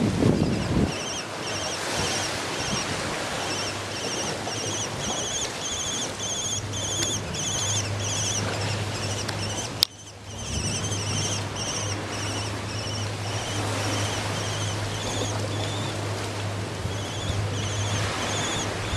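A bird chirping repeatedly, a few short notes a second, over a steady rushing background of wind or surf noise with a low hum. The chirps break off at a sharp click about halfway through, then resume.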